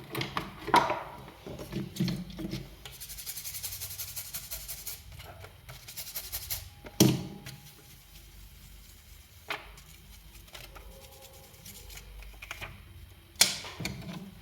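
Small tools and objects handled on a phone repair bench: sharp knocks and clicks about a second in, about 7 s in and near the end, with a rapid, high scraping rasp for a couple of seconds about 3 s in.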